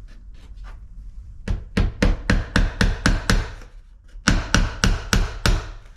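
A hammer tapping a small nail into pressed-wood window trim. The quick strikes come about five a second, in two runs with a short pause between them.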